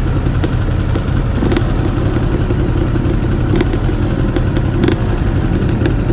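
Motorcycle engine running steadily at low speed, a deep drone with a few short sharp clicks scattered through it.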